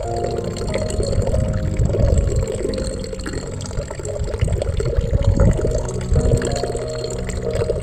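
Water gurgling and splashing steadily over a low rumble.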